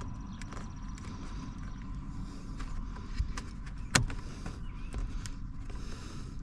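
Plastic steering-wheel trim being pried loose with a small metal pick and fingers: scattered light clicks and one sharp snap about four seconds in, over a steady low hum.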